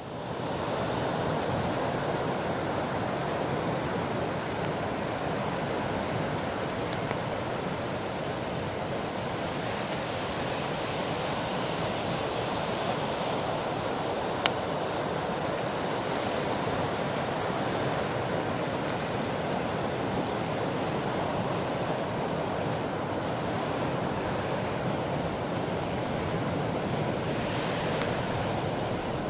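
Surf washing steadily onto a beach, swelling now and then as waves break, with a bonfire's faint scattered crackles and one sharp loud pop about halfway through.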